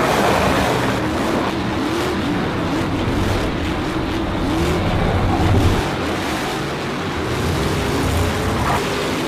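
Race car engines running and revving, with short repeated rises and falls in pitch over a steady rush of noise.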